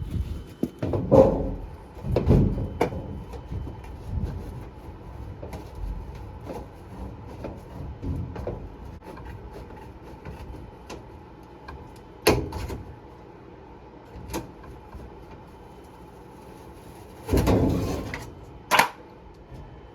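Scattered knocks and clunks of sheet-metal ductwork being handled and cut around a furnace, with a longer scraping clunk and a sharp click near the end.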